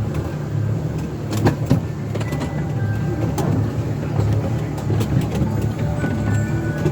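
A steady low engine rumble with a slight pulse, broken by scattered sharp clicks and knocks.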